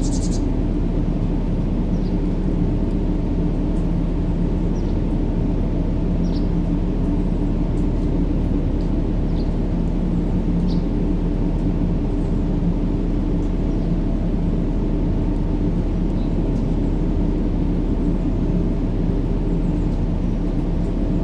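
Steady, unchanging low rumbling noise with a droning hum in it: a baby-sleep noise track. A few faint short chirps sound now and then higher up.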